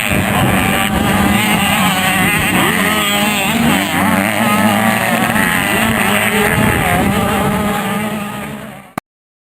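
Several 85cc two-stroke motocross bikes running hard, their engine notes overlapping and rising and falling as the riders rev and shift. The sound cuts off abruptly near the end.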